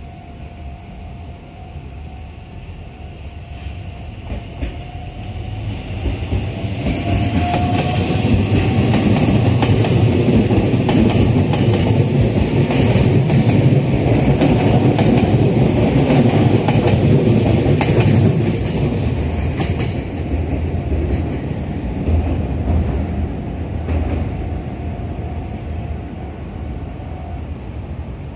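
Red Meitetsu electric train passing close by: it grows louder over several seconds, runs past for about ten seconds with wheels clacking over the rail joints, then fades away.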